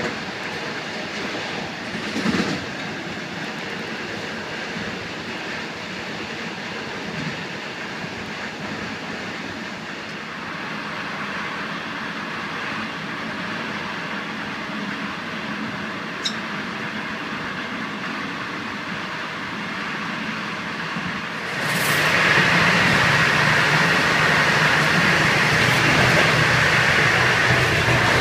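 Running noise of a China Railways express passenger train heard from inside the coach, wheels rolling steadily on the track. About three-quarters of the way through it suddenly becomes much louder and brighter and stays that way.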